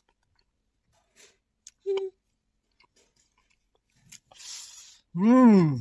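Close-up eating sounds: faint chewing and lip-smacking clicks, a short hum about two seconds in, and a breathy hiss. Near the end a loud, drawn-out vocal sound rises and falls in pitch.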